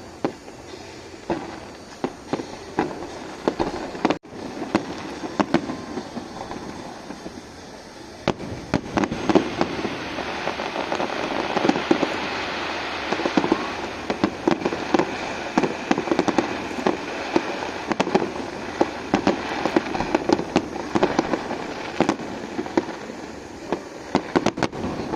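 Fireworks going off: scattered sharp bangs at first, building about a third of the way in into dense, rapid crackling with many overlapping pops.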